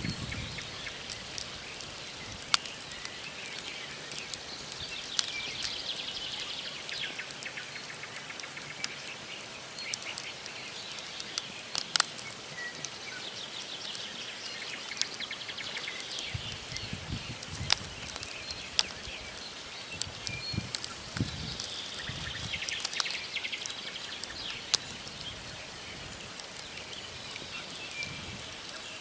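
Wood campfire crackling, with logs popping in sharp irregular snaps, one louder pop about twelve seconds in, over a steady hiss of burning wood.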